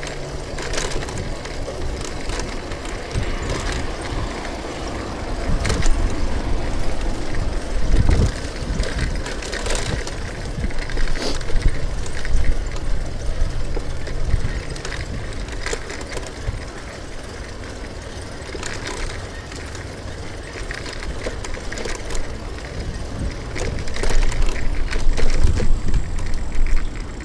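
Street noise heard from a bicycle riding through city traffic: a steady rush of wind and passing vehicles with scattered sharp knocks. It swells louder for several seconds twice, the second time near the end.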